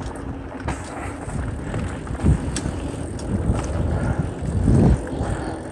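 Mountain bike rolling fast down a dirt flow trail: tyre rumble and rattle of the bike over the ground with wind on the microphone, and two louder bumps, one a couple of seconds in and one near the end.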